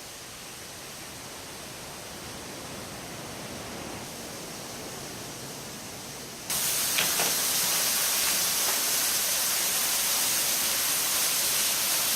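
Waterfall pouring, a steady rushing hiss of falling water that jumps suddenly much louder and brighter about halfway through.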